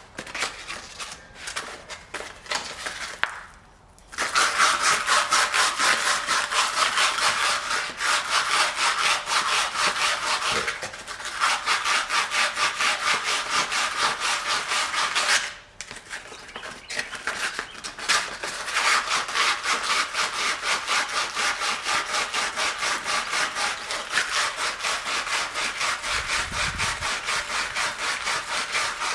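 Sandpaper scrubbing rust off metal lift brackets by hand: rapid back-and-forth rasping strokes starting about four seconds in, with a short break midway and a lighter stretch just after it.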